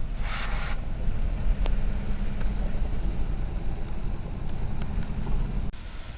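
Steady low engine drone at idle, with a short hiss about half a second in; the level drops abruptly near the end.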